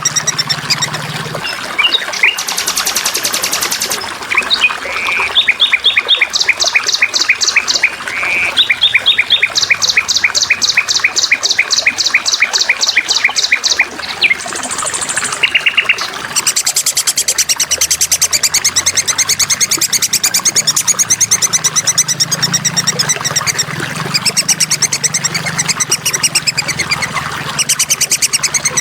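Songbirds chirping in runs of fast repeated notes and buzzy trills, turning into continuous rapid twittering about halfway through.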